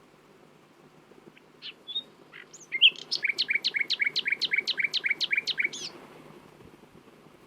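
Common nightingale singing: a few separate notes, then a fast run of about fourteen repeated notes, roughly five a second, lasting about three seconds before it stops.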